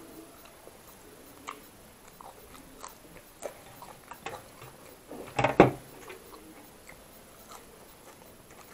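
Close-miked eating: chewing with scattered small crisp clicks, and a louder cluster of crunches about five and a half seconds in, from biting raw onion slices.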